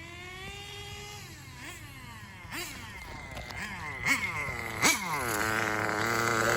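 Small nitro RC car engine revving: a high buzzing note sinks slowly, swoops up and down in several quick throttle blips, then holds a steady higher note that grows louder near the end. The engine is judged a little leaned out.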